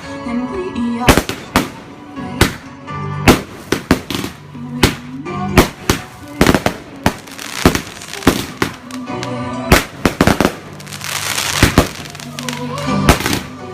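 Fireworks going off in a rapid series of sharp bangs, one or two a second, with a stretch of dense crackling about ten seconds in.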